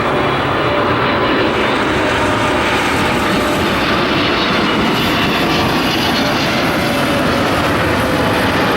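Loud jet noise from a Boeing 777-300ER's two GE90-115B turbofans as the airliner flies low past on final approach to land. The noise stays steady, with a faint whine that drifts slightly lower in pitch, and a hiss grows in the highs after about five seconds.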